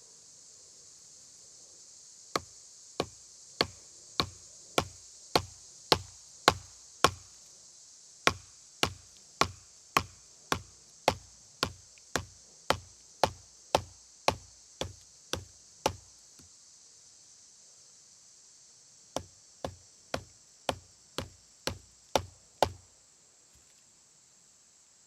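Knife being batoned through hemlock with a wooden striker: a steady run of sharp wooden knocks, close to two a second, a pause of about three seconds, then a shorter run of eight.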